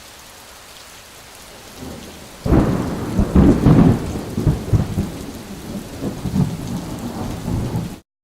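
Steady rain, then about two and a half seconds in a loud rolling rumble of thunder over the rain, which cuts off suddenly near the end.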